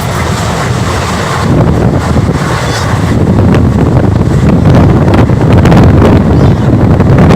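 Express train running at speed, its steady rumble mixed with heavy wind buffeting the microphone, with a few light clicks over the top; it grows a little louder about a second and a half in.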